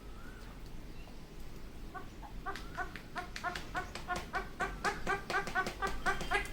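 Indian ringneck parakeet giving a fast run of short, repeated chattering calls, about five a second. The calls begin about two seconds in and grow louder.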